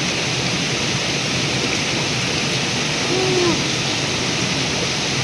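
River water rushing, a steady, even rush.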